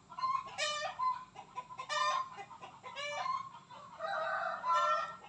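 A bird calling loudly and repeatedly: four clear calls, each dropping sharply in pitch at the end, with a harsher, rasping call about four seconds in.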